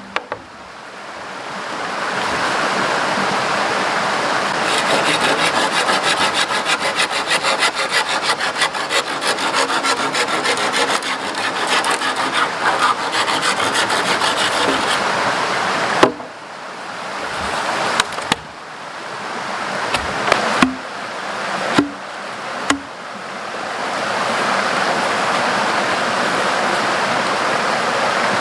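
Wood being hand-sawn in quick, even strokes over the steady rush of a river. Around the middle the sawing stops and about five sharp knocks on wood follow, a second or two apart.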